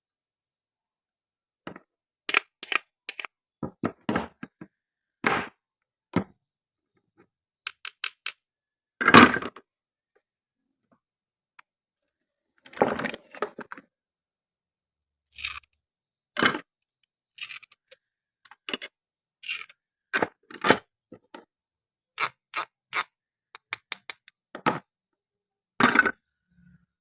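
Plastic and wooden toy fruit and vegetables being cut and handled: scattered sharp clicks, taps and short scrapes with silence between, the loudest about nine seconds in.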